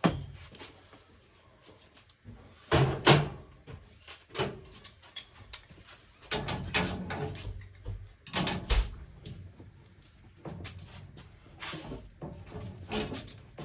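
Irregular knocks, clicks and scrapes of parts and tools being handled, with a pair of sharp bangs about three seconds in.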